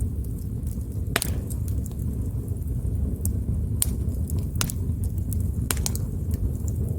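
Wood fire burning: a steady low rumble of flames with sharp pops and crackles scattered through it, a loud pop about a second in.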